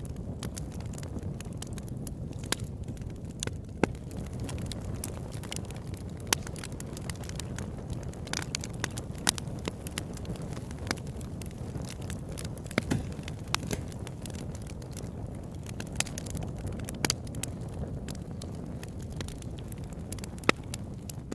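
Campfire burning: a steady low rumble of flame with irregular sharp crackles and pops from the burning wood, about one or two a second.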